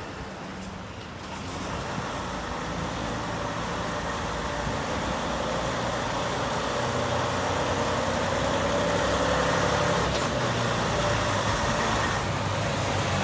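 Semi-truck's diesel engine running steadily, growing louder about a second and a half in and then holding.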